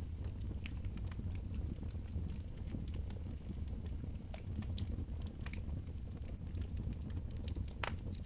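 Wood fire crackling, with irregular sharp pops over a steady low rumble; one louder pop comes near the end.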